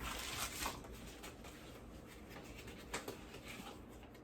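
Rustling and handling of a worn cardboard box, loudest in the first half-second, then quieter, with a few light clicks.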